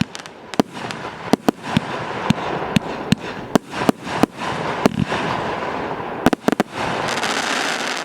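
TKB049 "Nonsense" consumer fireworks battery firing: irregular sharp bangs over a continuous crackling hiss, growing dense and loud near the end.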